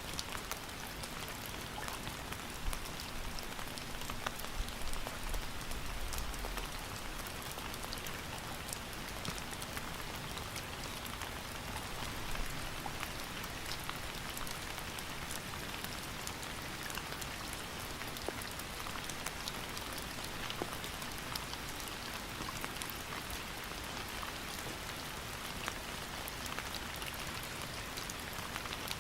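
Steady rain falling on a surface, a constant hiss with many individual drops ticking and pattering through it.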